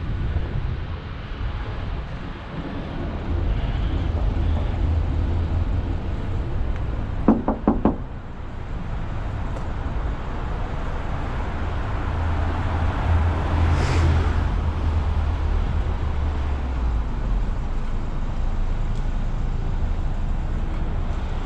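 Four quick knocks of a hand tapping on a parked car, about seven seconds in, against a steady low rumble of wind on the microphone and street traffic.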